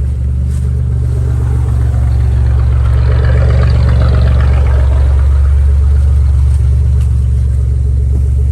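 Maserati Biturbo's twin-turbo V6 engine running steadily, growing a little louder about two to three seconds in.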